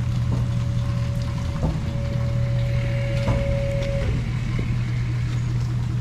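Roll-off container truck's engine running steadily, with a thin steady whine over it that stops about four seconds in, and a few light knocks.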